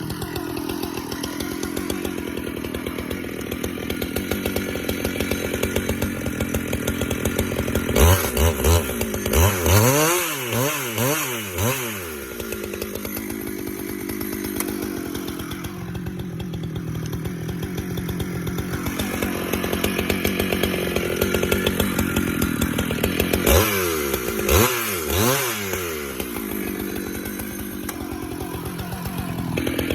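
Husqvarna chainsaw running steadily while noodling a large pecan round along the grain. Twice, about a third of the way in and again near three quarters, the engine speed rises and falls repeatedly for a few seconds.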